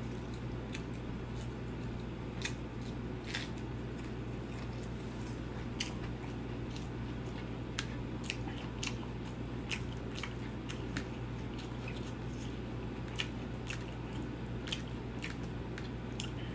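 Close-up eating sounds of a person chewing rice and pork curry eaten by hand: wet mouth smacks and small clicks at irregular intervals, over a steady low hum.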